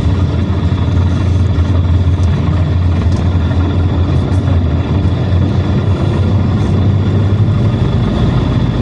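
PAZ Citymax 9 city bus running, heard from inside the passenger cabin: a steady low engine drone with road and drivetrain noise and a faint high whine.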